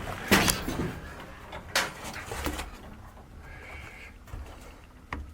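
A few separate knocks and bumps, with a faint short whine about halfway through.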